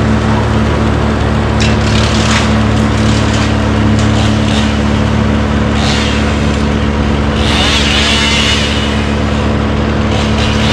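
A large engine running steadily, with a few short knocks and a longer noisy rush about eight seconds in.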